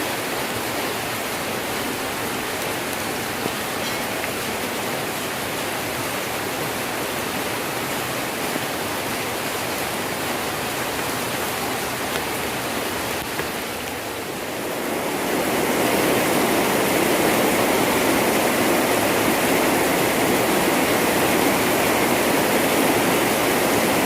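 Heavy rain falling steadily as a dense, even hiss. Around two-thirds of the way through it dips briefly, then swells louder and fuller.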